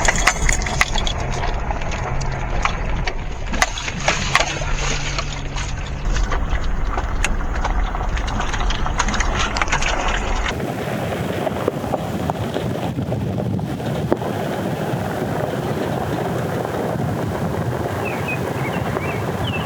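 Vehicle driving over a rough forest road: a low rumble with many clicks and rattles. About ten seconds in it cuts abruptly to a steady rushing hiss, with a few faint chirps near the end.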